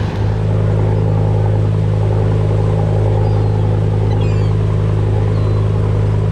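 Fishing boat's engine running steadily under way, a constant low drone with a strong hum.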